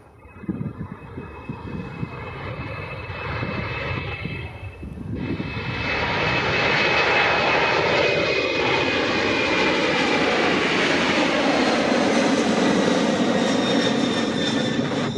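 Boeing 747-400 freighter's jet engines, quieter at first, then swelling about five seconds in and staying loud, with a high whine that slowly drops in pitch.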